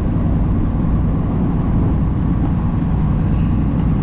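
Semi truck cab noise while driving: the engine and tyres make a steady low rumble with no changes.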